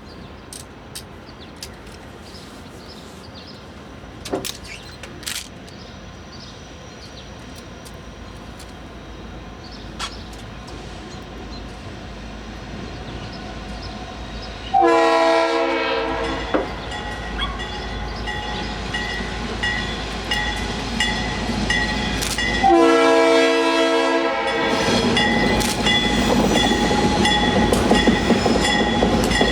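Norfolk Southern freight train with seven diesel locomotives approaching: a low rumble that builds, then the locomotive air horn sounding a long blast about halfway through and another about eight seconds later. After the second blast the engines and wheels grow loud as the lead units draw close.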